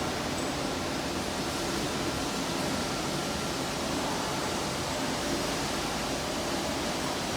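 Steady machinery noise: an even hiss with a faint hum of a few steady tones, unchanging throughout.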